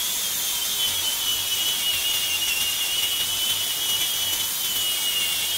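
Angle grinder fitted with a flap disc running steadily on deck lumber, a high whine with a slight sag in pitch.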